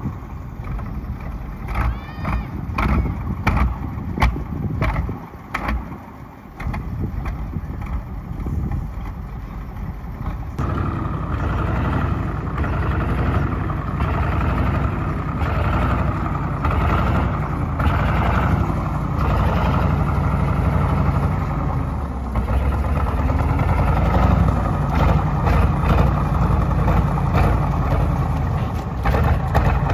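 KV-1 tank's V12 diesel engine running, with sharp knocks and clanks over a heavy rumble for the first ten seconds or so, then a louder, steadier engine sound from about ten seconds in.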